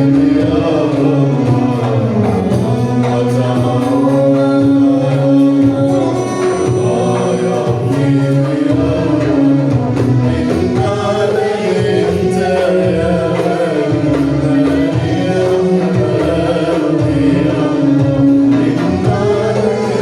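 A man singing an Arabic song in long held notes, accompanied by hand-drum percussion.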